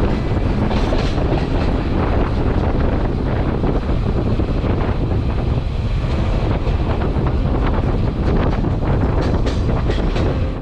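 Passenger train running on the track: a steady, loud rumble with the clatter of wheels on the rails.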